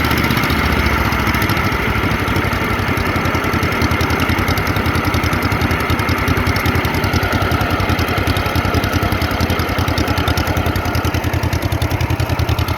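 Wisconsin TJD 18-horsepower air-cooled two-cylinder engine of a 1963 Yazoo YR60 mower running steadily with an even, rapid firing beat. The beat becomes more pronounced near the end.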